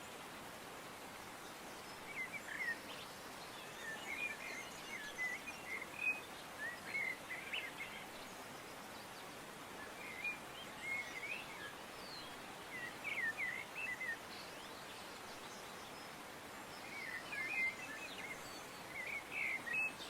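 Small birds chirping in short bursts every couple of seconds over a steady background hiss of outdoor ambience.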